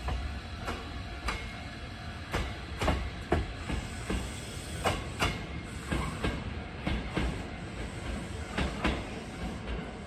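Hankyu Railway electric commuter trains running through the station with a low rumble, their wheels clacking over the rail joints, mostly in quick pairs of clacks.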